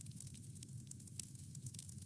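Wood fire crackling: scattered small pops and snaps over a low steady rumble of the burning, with one clearer pop about a second in.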